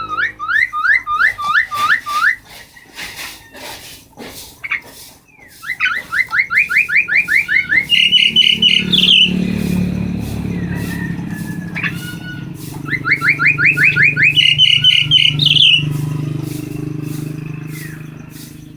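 Pet myna calling a rapid series of rising whistled notes, about ten a second, that climb higher and speed up at the end of each run, like a car alarm. It comes in two long bursts, with a low hum underneath in the second half.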